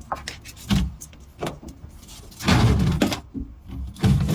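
Sampo washing machine's plastic drain hose being pulled down through a hole in the machine, rubbing and scraping in several bursts; the longest and loudest comes about two and a half seconds in.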